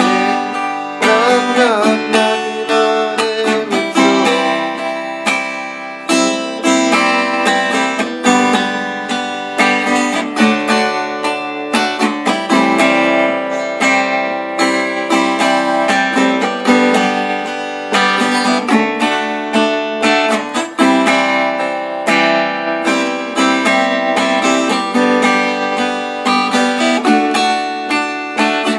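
Acoustic guitar strumming chords in an instrumental passage with no singing.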